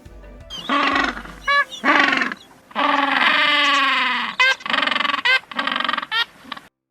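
Animal calls: several short calls and, about three seconds in, one long wavering call, cut off suddenly near the end.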